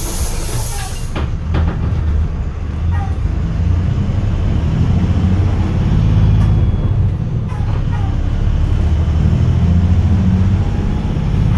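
Hyundai New Super Aero City bus's Euro 6 diesel engine running and pulling, a low rumble that rises and falls. A loud hiss of released compressed air cuts off about a second in.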